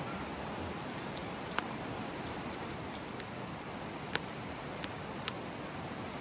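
Wood campfire burning: a steady hiss with a few sharp pops, about four of them spread through the second half.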